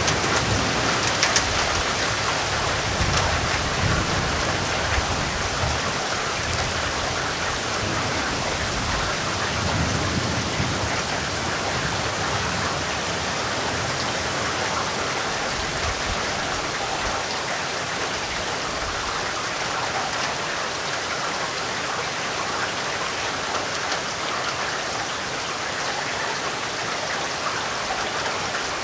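Steady heavy rainfall, an even dense hiss of drops. Low thunder rumbles roll through in the first few seconds and again about ten seconds in.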